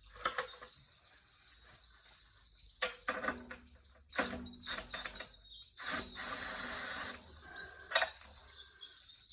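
Clinks and knocks of tools and bolts on metal as the engine's mounting bolts are fitted, with a rasping stretch of about a second around six seconds in.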